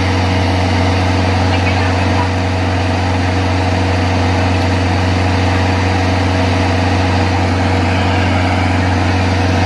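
Excavator diesel engine running at a steady speed, a constant low drone with no revving.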